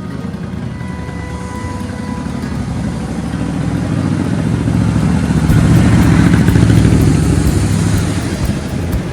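Motorcycle engine running, swelling steadily to its loudest about six to seven seconds in and then easing off, as a bike going past.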